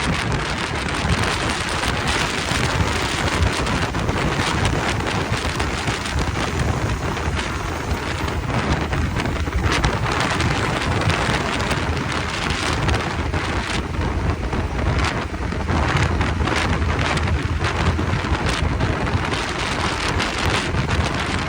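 Wind rushing over the microphone of a moving motorcycle, a steady rush with a low rumble underneath and frequent brief gusts.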